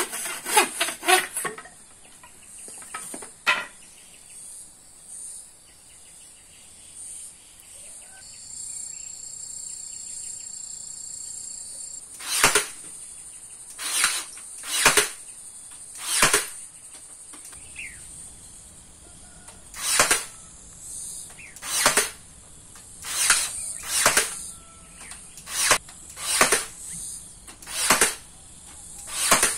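Hand sawing of wood: short rasping strokes, a cluster at the start, a quiet stretch, then one stroke every second or two through the second half.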